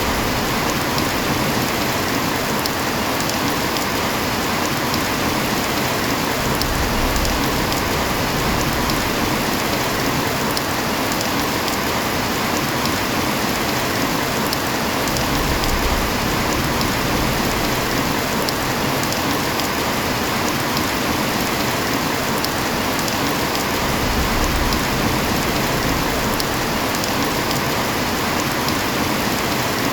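Heavy rain falling steadily: a dense, even hiss with scattered individual drop taps.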